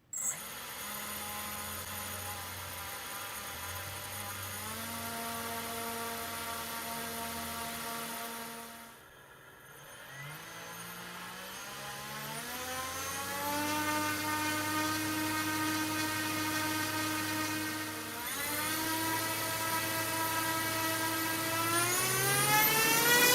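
Small brushless motor run by a BLHeli electronic speed controller, whining with a stack of tones that steps up in pitch as the throttle is raised in stages. About nine seconds in it slows nearly to a stop, then spins back up, stepping higher, and rises sharply near the end.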